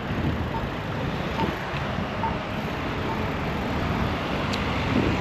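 Wind rushing over a bike-mounted GoPro's microphone while riding, over steady street-traffic noise. A faint short beep repeats a little more than once a second and stops about three seconds in.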